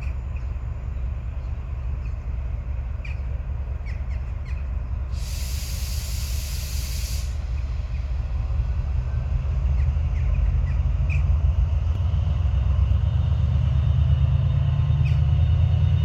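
Train rumbling, growing louder, with a burst of air hiss lasting about two seconds, about five seconds in, typical of an air brake release.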